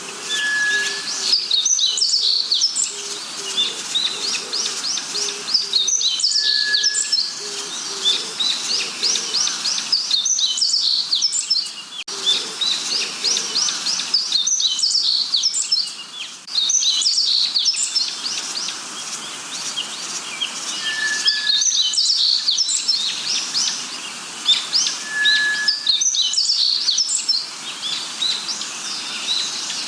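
Several birds calling together: bursts of rapid high chirps every few seconds, a few short clear whistles, and a series of low soft notes in the first half.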